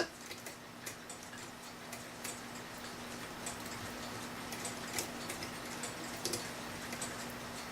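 Faint light ticks and clicks, irregularly spaced, over a steady low hum.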